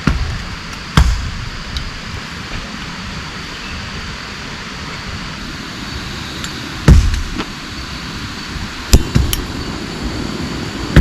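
Steady hiss of heavy rain, broken by a few sharp, heavy thuds several seconds apart.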